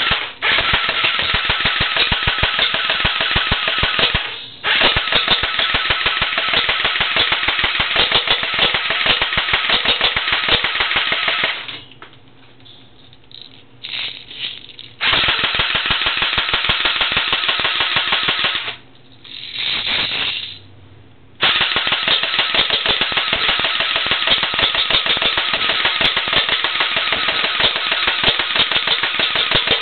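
Pulse M74 DP airsoft gun firing full-auto in long, rapid bursts of closely spaced shots. The firing breaks off briefly about four seconds in, for a few seconds from about twelve seconds in, and twice around nineteen to twenty-one seconds, then runs on again.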